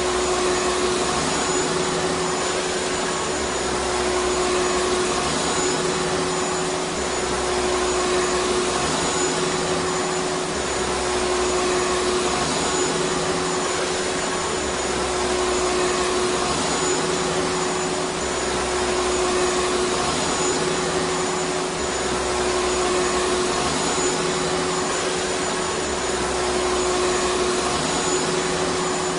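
Vacuum cleaner running steadily: a constant rush of air with a steady motor whine, and a low rumble that swells and fades every couple of seconds.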